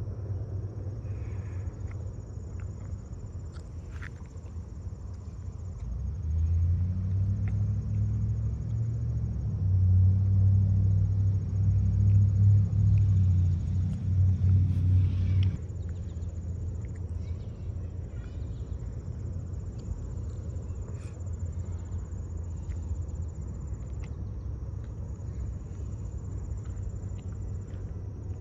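Empty freight train rolling past with a steady low rumble. About six seconds in, a louder low droning hum joins it and cuts off suddenly about fifteen seconds in. Crickets chirr steadily in the background.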